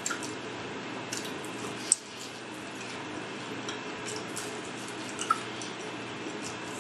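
Close-up wet chewing and lip-smacking as she eats chicken off the bone, with scattered small clicks and two sharper ticks, about two seconds in and about five seconds in. A steady low hum runs underneath.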